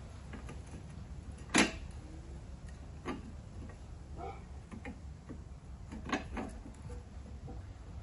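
A few sharp clicks and knocks from hand tools and metal parts being handled during a mower-deck spindle job. The loudest knock comes about one and a half seconds in, with a low steady hum underneath.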